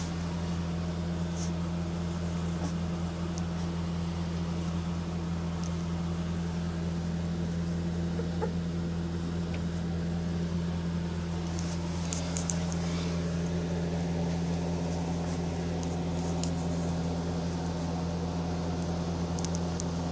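A steady low hum, unchanging throughout, with a few faint scattered ticks.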